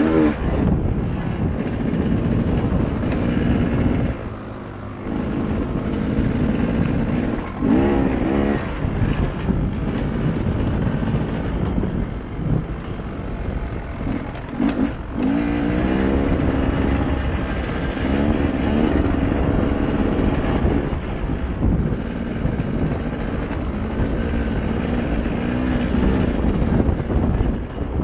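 Dirt bike engine running under way, its pitch climbing several times as the throttle is opened and easing off between, with a brief drop in loudness about four seconds in.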